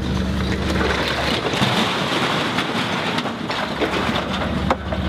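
Demolition of a building: a heavy machine's engine running steadily, then for about three seconds from a second in, a rush of crunching and clattering debris coming down. The engine hum comes back near the end.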